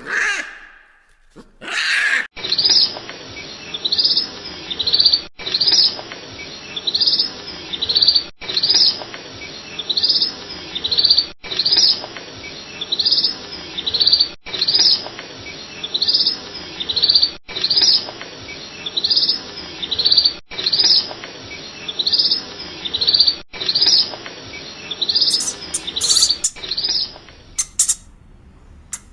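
A bird chirping repeatedly, short high chirps at about two a second over a steady background hiss, the same few-second recording looped again and again until it stops near the end.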